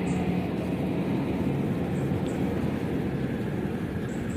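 Kubota DC-70 combine harvester's diesel engine running steadily with a low drone.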